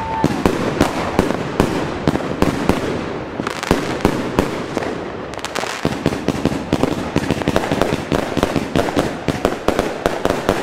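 Funke Cloud Connected firework battery (cake) firing: a dense run of sharp bangs, several a second, with continuous crackling from the bursting stars.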